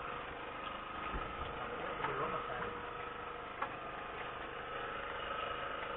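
Small engine running steadily at idle, a steady hum with a fine ticking rhythm, with a couple of light clicks.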